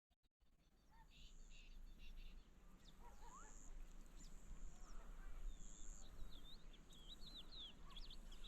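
Faint outdoor field ambience: small birds chirping in many short, quick sweeping calls, busier from about three seconds in, with a high thin buzz that comes and goes every couple of seconds.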